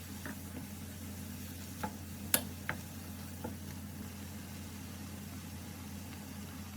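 A steady low electrical hum with a few short clicks and taps; the sharpest comes about two and a half seconds in.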